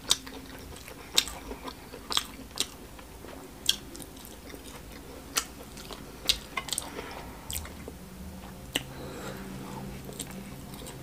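Close-miked mukbang eating sounds: a person chewing a mouthful of smoked catfish stew and rice, with sharp wet lip smacks and mouth clicks every second or so. A low steady hum comes in near the end.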